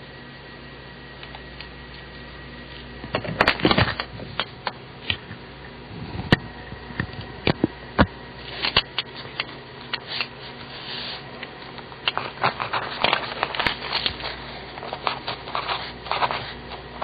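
Papermate Sharpwriter mechanical pencil with 0.7 mm lead writing on paper: irregular scratching strokes and small taps that start about three seconds in. A steady low hum runs underneath.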